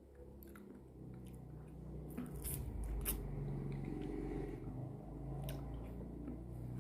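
Close-up mouth sounds of eating ice cream: wet chewing and small clicks of the lips and tongue.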